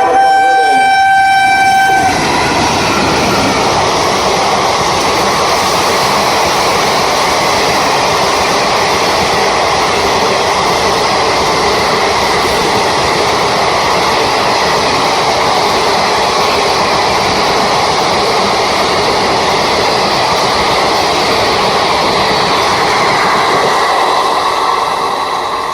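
Indian express train sounding its horn, one steady note held for about two seconds. Then the train passes at speed, a continuous loud rumble and rattle of coaches on the rails that starts to fade right at the end.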